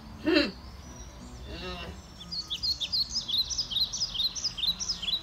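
A small bird singing a rapid run of high chirps, starting about two seconds in. Before it come two brief voice sounds.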